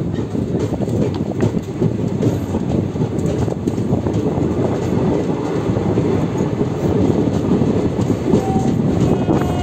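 Indian Railways passenger train running at speed, its wheels rumbling and clicking steadily on the rails, heard from on board.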